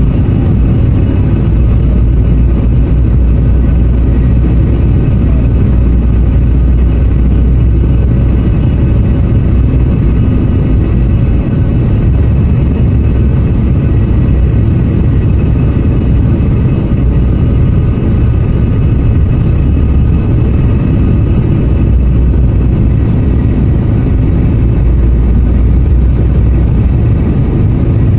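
Airliner cabin noise on the landing approach: a loud, steady low rumble of the engines and rushing air, with faint steady whining tones above it.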